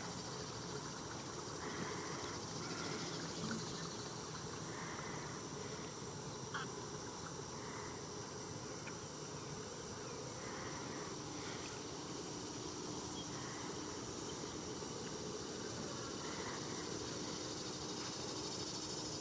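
Steady, high-pitched chorus of insects, an unbroken drone, with faint short calls every second or two beneath it.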